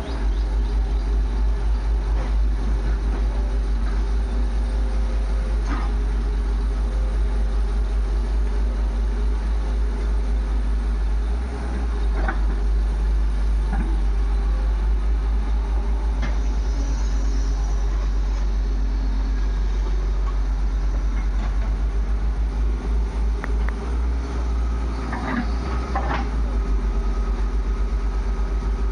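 Heavy diesel machinery engine running steadily with a low throb, with a few short knocks and clanks now and then.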